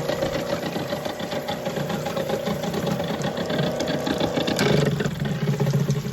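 Yardbird chicken plucker running: the electric motor hums steadily as the plucking drum spins with water running into the tub. The hum drops in pitch about four and a half seconds in.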